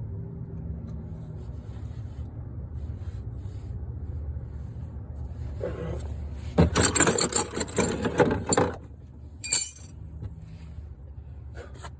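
Metal clattering and rattling for about two seconds just past the middle, like tools or metal parts being handled, followed by a few sharp clinks, over a steady low hum.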